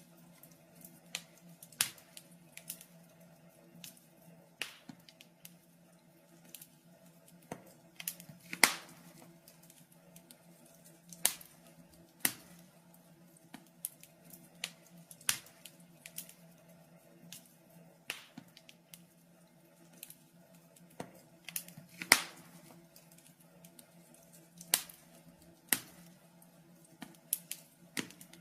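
Wood fire crackling in a fireplace: irregular sharp pops and snaps, a handful of them much louder, over a faint steady low hum.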